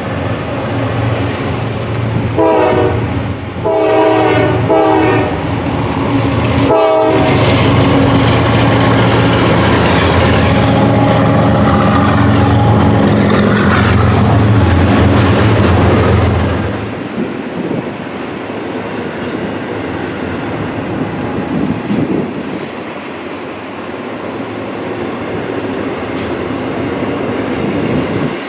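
Diesel freight locomotives sound several short horn blasts, then pass close by with their engines running loud and steady. After about 17 seconds the engines fade and the freight cars roll past with a quieter clatter of wheels on rail.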